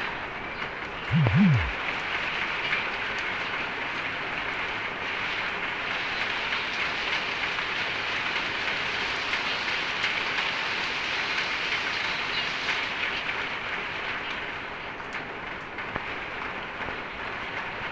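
Steady rain falling, an even hiss. About a second in, a brief loud low sound swoops down in pitch twice.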